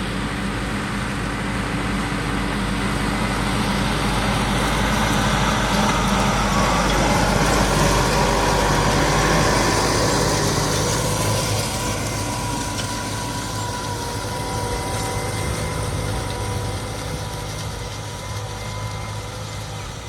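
Tractor engine running, growing louder towards the middle and then fading again, with a faint steady whine over it in the second half.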